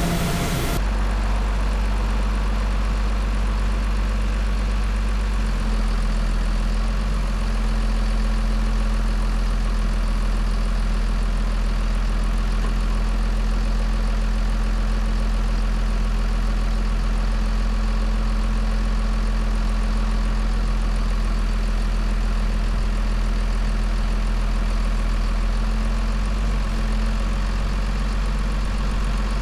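Mobile crane's heavy engine running steadily at a low, even pitch.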